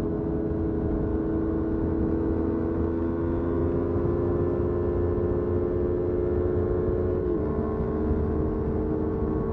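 Motorcycle engine running at a steady speed, an even drone with a low rumble underneath; the pitch dips slightly about seven seconds in.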